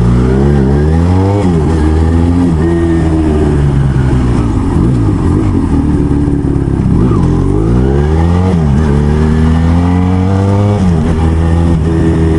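Motorcycle engine accelerating hard through the gears, its pitch climbing and then dropping sharply at each upshift, several times over.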